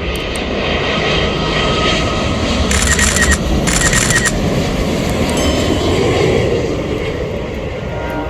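Jet engines of a Boeing 787-9 airliner going by: a loud, steady rumble with a faint whine, swelling in the middle and easing slightly near the end.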